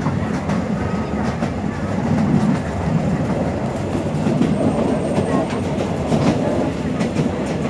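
Train running along the track: a steady low rumble with scattered clicks from the wheels passing over rail joints.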